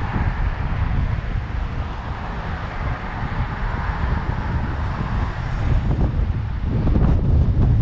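Wind buffeting an action camera's microphone during a bike ride, a heavy low rumble with a steady rushing noise over it that fades about five seconds in; the buffeting grows louder near the end.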